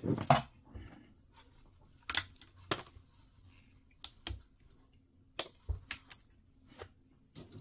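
Small hard plastic model-kit parts being handled and fitted together: a scatter of short, sharp clicks and taps, several in quick succession a little past the middle.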